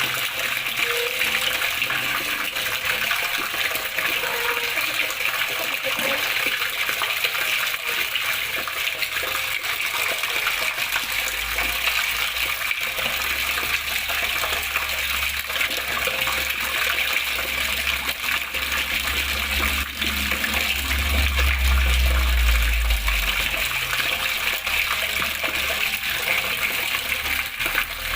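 Water flowing and splashing steadily, an even rushing hiss with no breaks. A low rumble swells in the middle and fades again.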